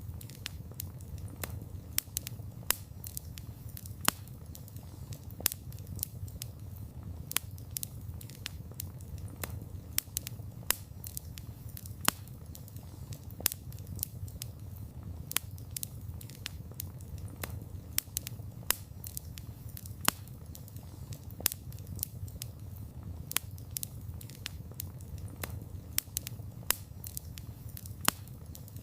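Wood campfire burning: a steady low rumble of flames with frequent sharp, irregular crackles and pops from the burning wood.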